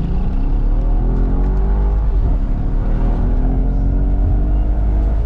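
Mercedes-AMG S63 Cabriolet's twin-turbo V8 under hard acceleration in Sport+ manual mode, revved toward the red line. The revs climb steadily, fall back at an upshift about two seconds in, then climb again to another shift near the end.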